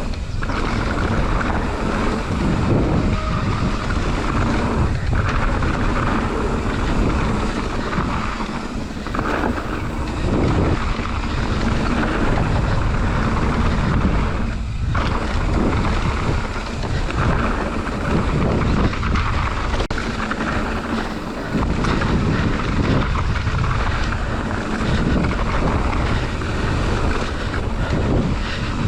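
Mountain bike riding down a trail: wind buffeting the microphone, over a continuous rumble and rattle of the bike rolling across rough ground.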